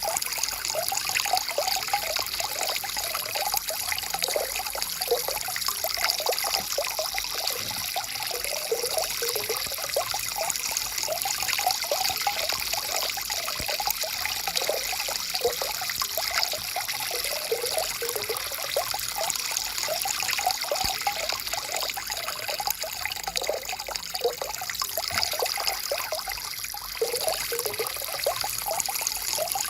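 Water in a stream flowing over rocks, trickling steadily with a constant patter of small gurgles.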